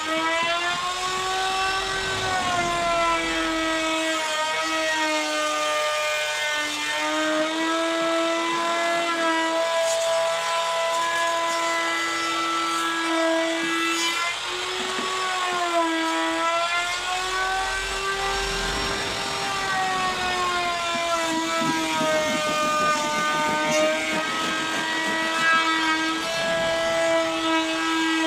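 Electric power tool motor running continuously while working wood, its whine dipping and recovering in pitch every few seconds as it comes under load and frees up.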